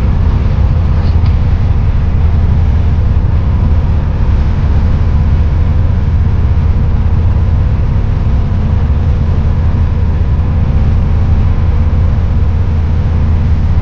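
Peterbilt 379 semi truck running, heard from inside the cab as a loud, steady, deep rumble that does not change.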